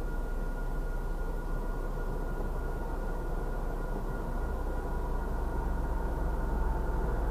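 Low rumble of an approaching MBTA diesel commuter train at a grade crossing, growing louder in the second half as it nears. Steady high tones from the crossing warning signal sound above it.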